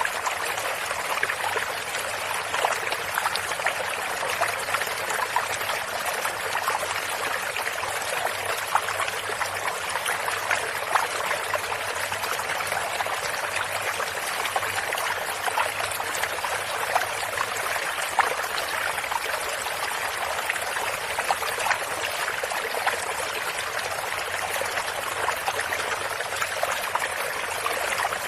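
Shallow stream running steadily over stones, a continuous trickling and splashing of water.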